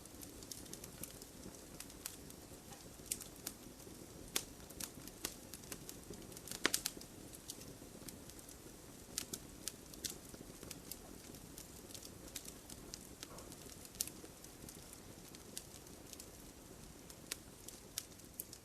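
Wood fire burning in a fireplace: a low steady rush of flames with irregular crackles and sharp pops from the logs, the loudest a quick cluster of pops about six and a half seconds in.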